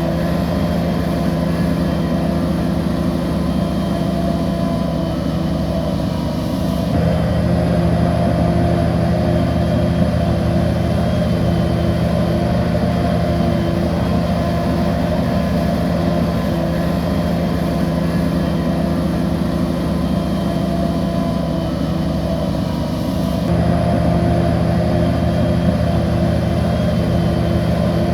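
Bulldozer's diesel engine running steadily under load, a deep continuous hum that gets a little louder about a quarter of the way in and again near the end.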